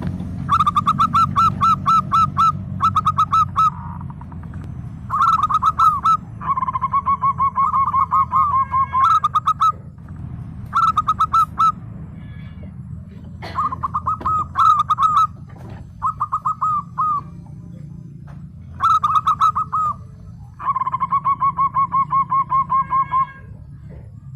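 Zebra doves cooing: about ten bouts of quick staccato notes, most around a second long, with two longer trilling runs of two to three seconds, over a steady low rumble.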